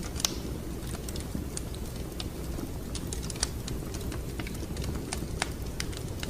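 Wood fire crackling in a fireplace: irregular sharp pops and snaps, the loudest about a quarter second in, over a steady low rumble of the flames.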